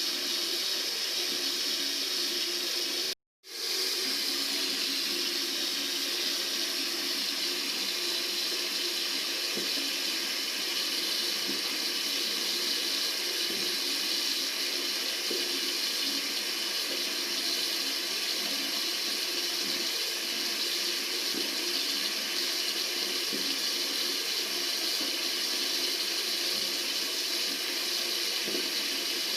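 Tap water running steadily into a sink, an even hiss with one brief total dropout about three seconds in.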